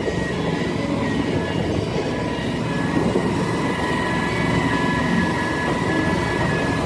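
Motorboat engine running steadily underway: a continuous rumble with a thin steady whine above it.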